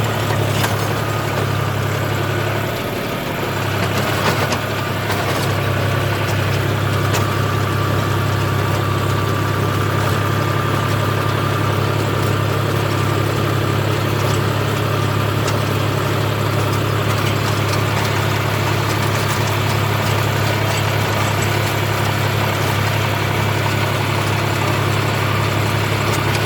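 John Deere 5039D tractor's three-cylinder diesel engine running steadily while the tractor pulls a lowered plough across the field, with a brief dip in the engine sound about three seconds in.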